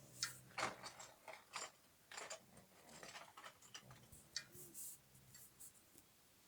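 Sleeping pug's faint, irregular snuffly breathing: a series of short clicks and snuffles over a low steady hum.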